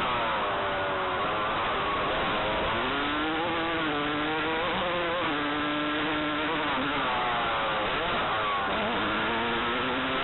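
Motocross dirt bike engine being ridden hard, its buzzing pitch rising and falling back several times as the rider works the throttle.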